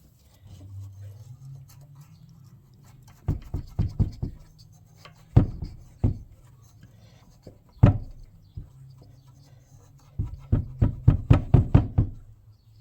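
Clusters of sharp clicks and knocks from hands and tools working a fuel line onto a small engine's fuel tank, with a quick run of clicks near the end, over a low steady hum.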